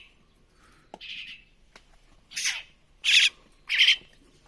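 Young crested mynas giving harsh, rasping begging squawks while being hand-fed: one faint call about a second in, then three loud ones in quick succession near the end.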